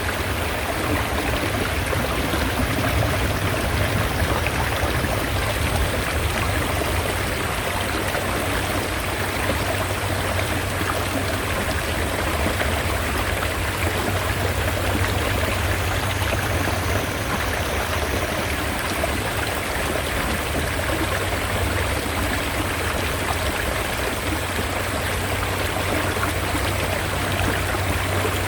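Mountain stream water rushing steadily, an even, unbroken wash of sound with a strong deep rumble underneath.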